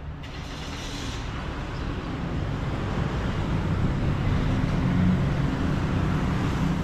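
A car engine rumbling low and growing steadily louder as the car approaches.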